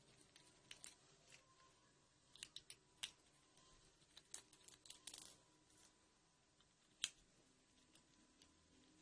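Faint, scattered small clicks and light taps of small hard objects being handled, in a few short clusters, with one sharper click about seven seconds in.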